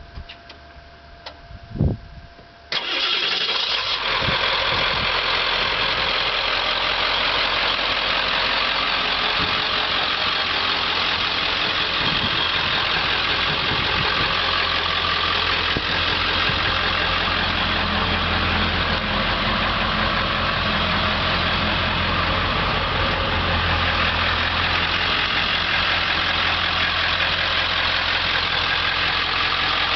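A few clicks, then the 1995 Ford F450 service truck's engine starts about three seconds in and idles steadily.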